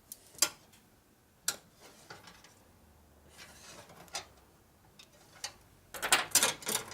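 Scattered sharp metal clicks and knocks as a small steel part is handled and bent with hand tools, a single click every second or so, then a quick run of several clacks near the end.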